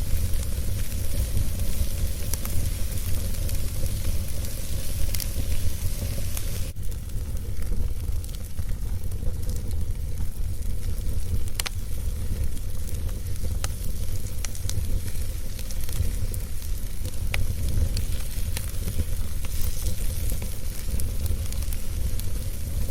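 Wood fire burning, with a steady low rumble and hiss and scattered sharp crackles and pops from the burning wood. The high hiss falls away suddenly about seven seconds in.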